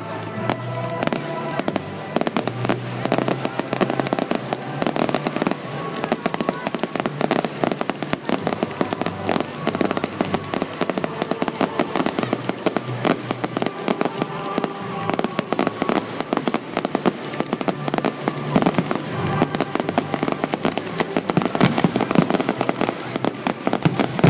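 Fireworks display going off in a dense, continuous run of cracks and bangs.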